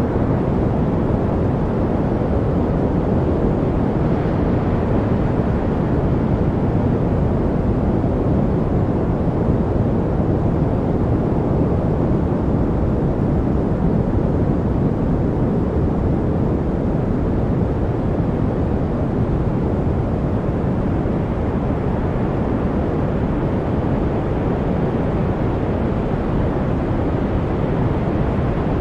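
Steady white noise played as a study background: an even, deep hiss-like rumble with little treble and no change at all.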